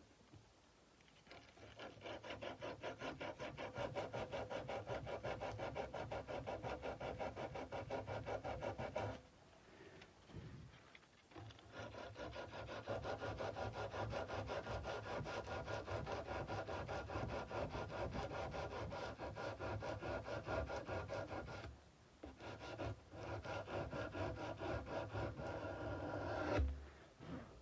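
Sandpaper rubbed by hand along a steel kukri blade in fast, even back-and-forth strokes. It comes in three spells with two short pauses between them, and a brief knock near the end.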